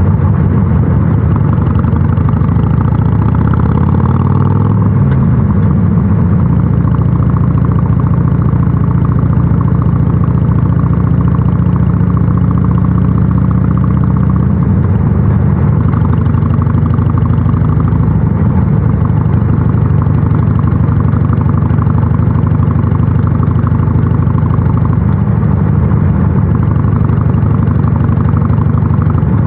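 Harley-Davidson Sportster 883 SuperLow's air-cooled V-twin, fitted with North American-spec mufflers, running under way on the road. Its pitch shifts a few seconds in, then holds fairly steady.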